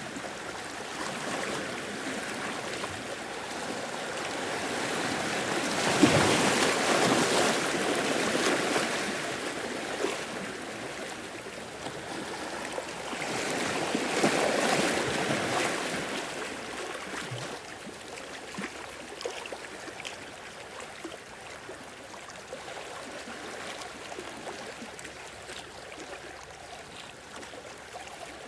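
Sea waves breaking and washing in. Two larger waves come in, one sudden about six seconds in and another around fourteen seconds, with a quieter steady wash between and after.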